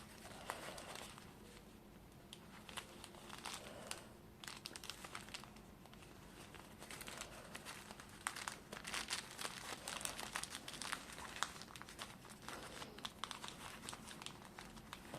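Faint, irregular rustling and crinkling with small clicks as hands handle and arrange a gift inside a fabric basket.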